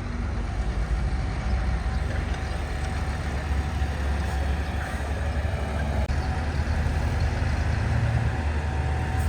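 Diesel engine of a heavy earthmoving machine running steadily with a low drone.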